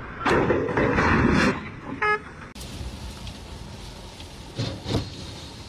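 Road traffic sound: a loud rushing noise lasting about a second, then a short single vehicle horn toot about two seconds in. Two short thumps come near the end.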